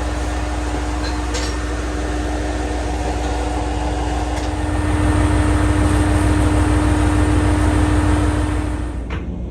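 Setsugekka, a diesel railcar, running along the line: a steady low rumble with a steady hum, growing louder about halfway through, then dropping off suddenly near the end.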